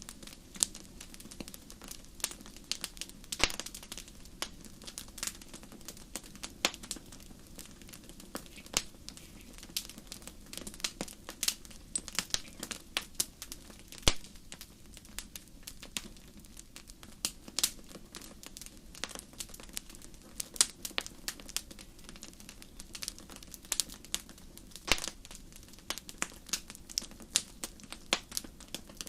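Wood fire crackling in a fireplace: irregular sharp pops and snaps, several a second, over a steady low background of flame noise, with one louder snap about halfway through.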